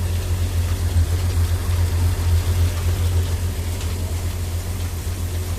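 A big engine powering a mini flour mill runs steadily with a deep, low pulsing note.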